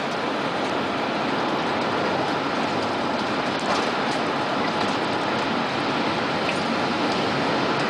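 A tornado's wind roaring steadily, growing a little louder, with a few faint ticks.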